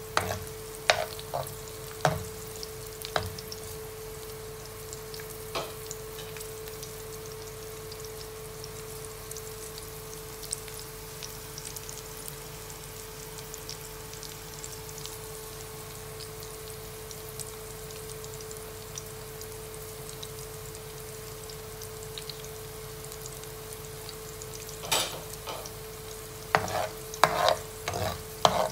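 Garlic cloves frying in oil in a nonstick pan: a steady sizzle, with the spatula clacking and scraping against the pan a few times in the first seconds and again in a quick flurry near the end. A steady hum runs underneath.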